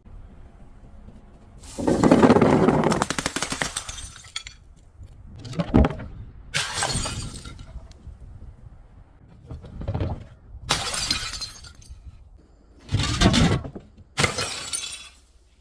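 Glass bottles shattering and crunching, in about six separate breaks with short pauses between; the first is the longest and loudest, and a sharp single crack comes in the middle.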